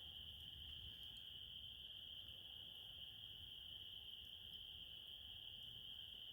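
Crickets trilling in a faint, steady chorus that blends into one unbroken high-pitched ring, with a few faint ticks.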